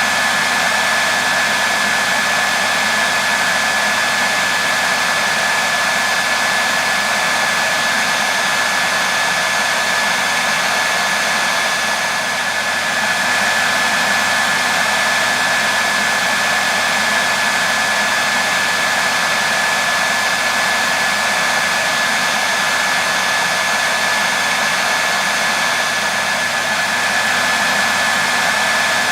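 Hair dryer running steadily, a constant rush of air with a thin high whine from its motor. Loop-like and unchanging, with a brief slight dip in level about twelve seconds in.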